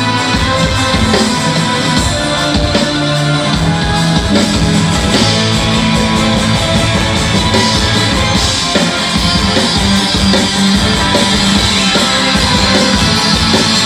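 Live band playing loud through a concert sound system: electric guitar and bass over a drum kit, with no singing.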